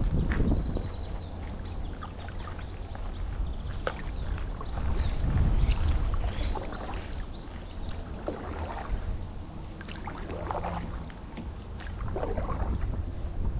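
Paddle strokes from a stand-up paddleboard dipping and pulling through canal water, a few seconds apart, with small birds chirping and wind rumbling on the microphone.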